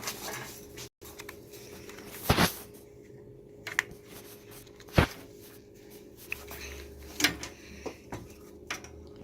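A few separate sharp clicks and knocks of a spark plug and hand tools being handled, with quiet room tone between them; the loudest knock comes about halfway through.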